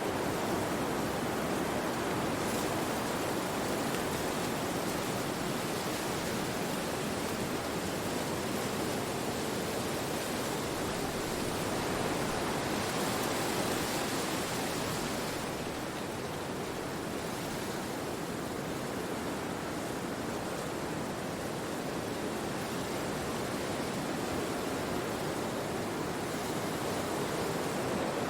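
Steady wind through forest trees, an even rushing noise that swells a little brighter about halfway through.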